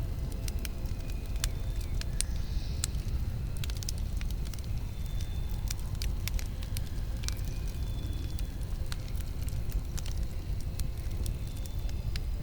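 Campfire burning: a steady low rumble under frequent, irregular sharp crackles and pops from the burning wood.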